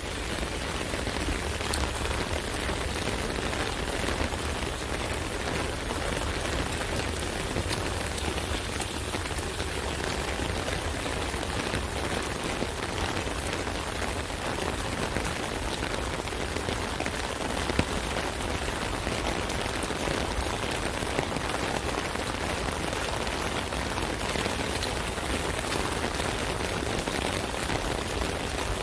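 Steady rain falling on an umbrella: a dense, even hiss of many drops hitting the canopy, with one slightly louder drop strike about eighteen seconds in.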